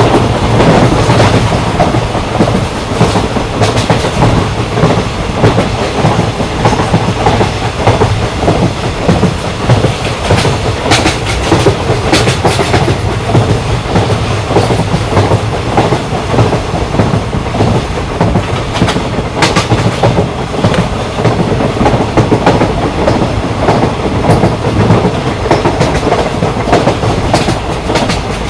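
Train running along the rails: a steady, loud rumble of the wheels and cars, with scattered sharp clicks and knocks from the wheels over the track.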